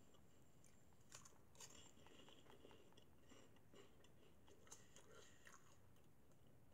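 Faint chewing of crunchy Cheetos Flamin' Hot Bag of Bones corn snacks with the mouth closed, a few soft crackling crunches, the clearest about a second in.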